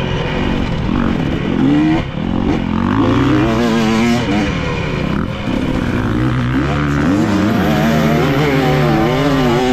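Dirt bike engine ridden hard on a motocross track, revving up and dropping off again and again as the throttle is worked through the turns and jumps.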